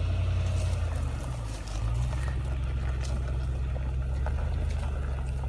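Toyota Land Cruiser engine running at low revs as it creeps forward, towing a cable that drags cut juniper limbs up out of a ravine. Its note steps up slightly about two seconds in.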